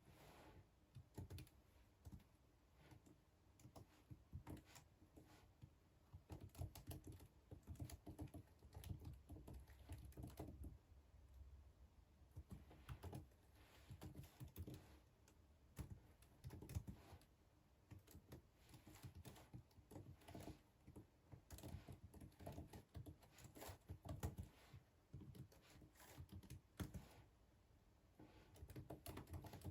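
Faint computer keyboard typing: keys clicking in irregular runs with short pauses between them.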